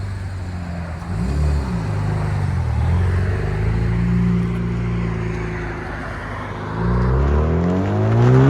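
Exhaust of a 2013 Cadillac ATS 2.0-litre turbo four-cylinder, straight-piped with dual pipes after a Y-pipe and its catalytic converters kept, as the car drives off. The revs rise and fall briefly about a second in, hold fairly steady, then climb steeply under acceleration near the end.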